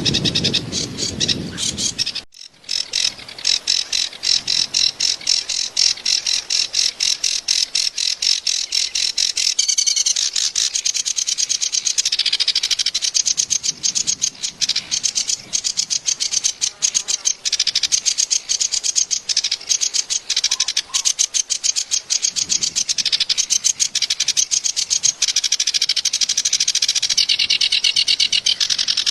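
Kerak basi (clamorous reed warbler) singing a long, fast, harsh chattering song of rapid notes, broken by a short pause about two seconds in.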